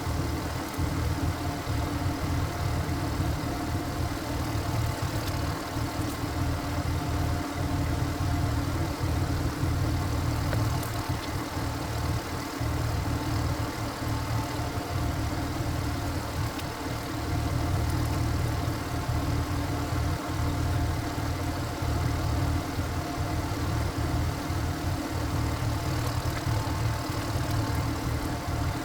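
Walk-behind farm tractor's single-cylinder diesel engine running steadily.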